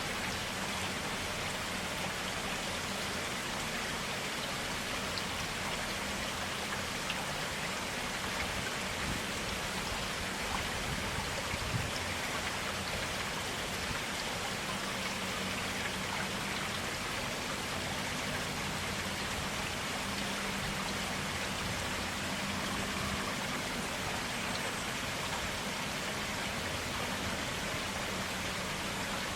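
A forest stream flowing and splashing steadily, an even rush of water with a few small drips and splashes.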